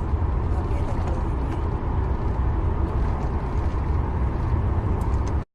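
Steady low rumbling noise that cuts off suddenly near the end.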